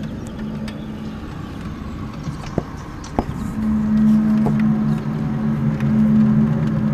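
The unexplained low, steady drone of the kind reported worldwide as 'strange sounds', heard through an open window: a hum of a few held low pitches that fades about a second and a half in and swells back louder about three and a half seconds in, with a few faint clicks over it.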